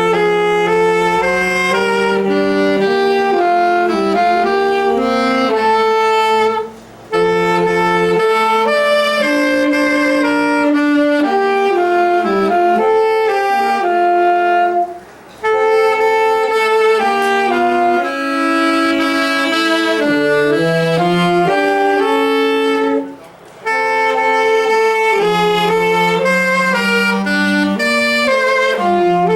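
A small ensemble of wind instruments playing a slow chordal tune in held notes, starting on a count-off. It goes in phrases, with a brief break about every eight seconds.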